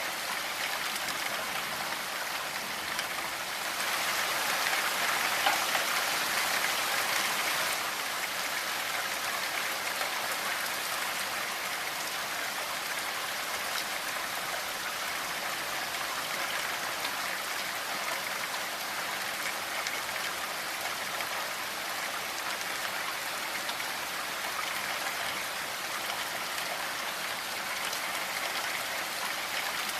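Steady rainfall, with a heavier spell from about four to eight seconds in.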